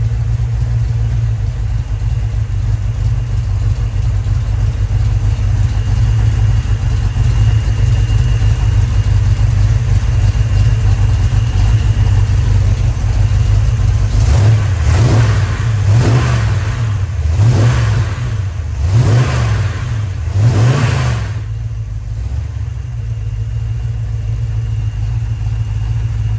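Freshly rebuilt Chrysler 318 V8 idling steadily on its first run, then blipped through about five quick revs in the second half, each rising and falling, before settling back to a smooth idle.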